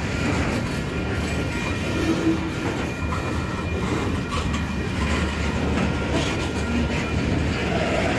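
Freight train cars rolling slowly past on the rails: a steady wheel rumble with scattered faint clicks from the wheels and rail joints.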